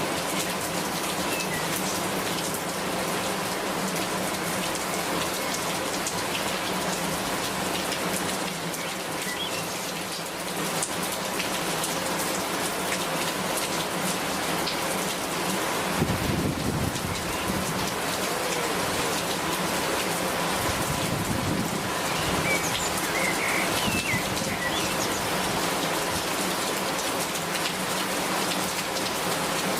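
Steady, heavy rain falling and spattering on surfaces. A low rumble of thunder comes in about halfway through and lasts several seconds.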